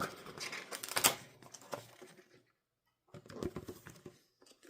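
Paper and card rustling with light clicks as an album's booklet and inclusions are handled and leafed through, stopping for about a second midway before another short rustle.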